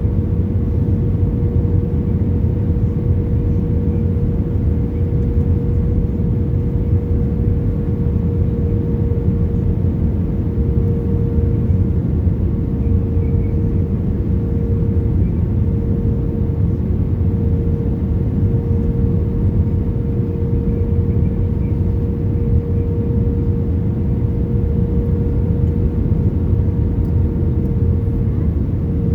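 Airbus A320 cabin noise on the approach to landing: a steady low rumble of airflow and jet engines, with one constant hum-like tone running through it.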